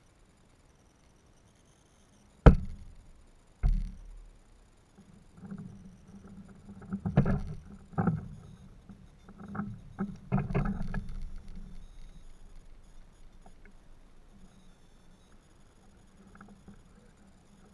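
Two sharp knocks, about two and a half and about four seconds in, then a run of irregular knocks and bumps with a low rumble from about five to twelve seconds in, fading away.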